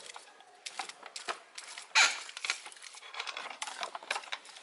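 Rustling and light clicking as hands handle a hand sprayer and small parts, with one short louder burst about two seconds in.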